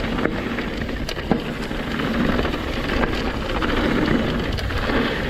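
Mountain bike riding fast down a dirt trail: wind rushing over the microphone and tyres on dirt, with a few sharp knocks from the bike over bumps.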